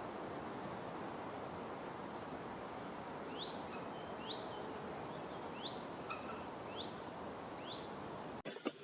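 Forest birds calling over a steady background hiss: many short rising whistles, and a few longer whistles that drop in pitch and then hold. It all cuts off abruptly near the end.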